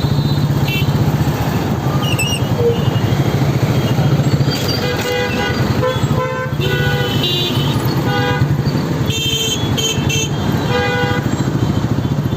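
Motorcycle engine running steadily on the road amid city traffic, with vehicle horns honking repeatedly from about five seconds in, several in a row toward the end.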